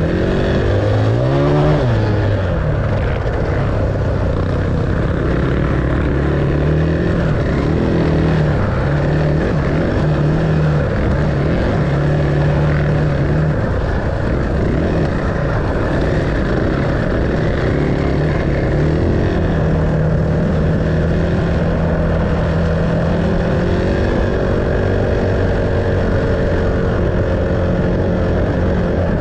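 Enduro dirt bike engine running while being ridden, its pitch rising and falling over and over with the throttle.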